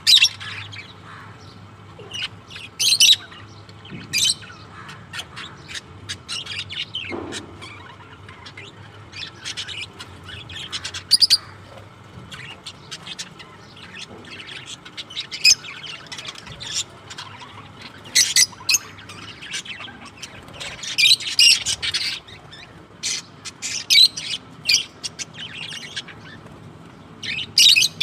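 Pet parrots squawking and chirping: many short, shrill calls that come in irregular clusters, some of them loud.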